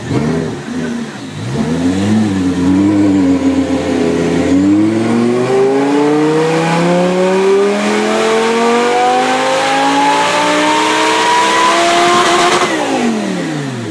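Stasis-supercharged Audi R8 engine on a chassis dyno: a few short revs, then a full-throttle pull with the pitch climbing steadily for about eight seconds, before the revs drop quickly near the end.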